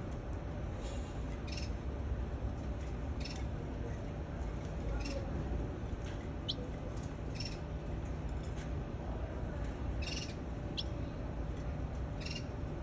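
Canary giving short chirps every second or two, with a couple of thin whistled notes among them, over a steady low background rumble.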